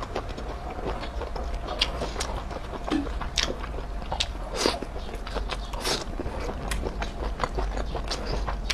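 Close-miked eating sounds: a person biting food off a fried skewer and chewing it, with many irregular little clicks.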